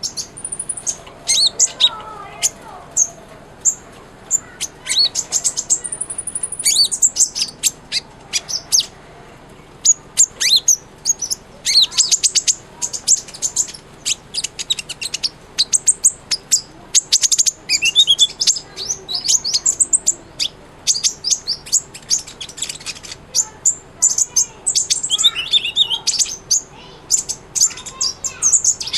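A kolibri ninja (a sunbird) singing vigorously: a fast, continuous stream of high, thin chirps, twittering trills and short whistled slurs.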